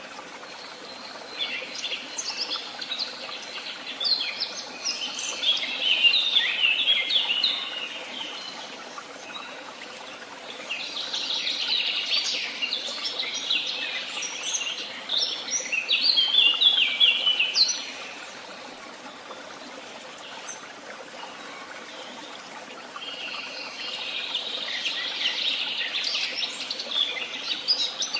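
Woodland songbirds singing in three long bouts of rapid, high twittering phrases, each lasting several seconds, over a steady background hiss.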